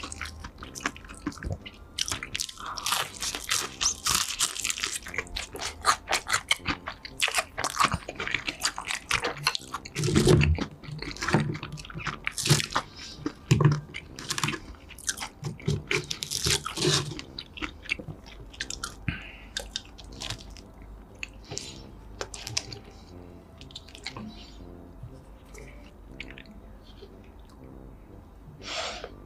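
Close-miked crunchy chewing and biting of food, many sharp crackling crunches, busiest in the first half and thinning out toward the end.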